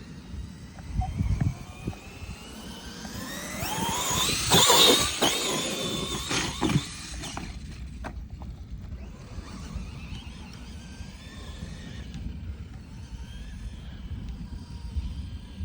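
Electric RC truck motor whining, rising in pitch as the truck speeds up and loudest about five seconds in, then dropping away about two seconds later. A fainter whine comes and goes afterwards over a low rumble.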